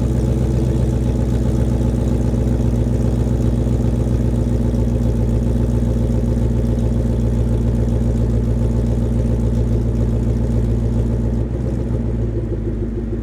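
2014 Mustang GT's 5.0 Coyote V8 idling steadily after a cold start, through a Corsa Extreme axle-back exhaust with an off-road H-pipe. The tone is deep and even, and dips slightly in level near the end.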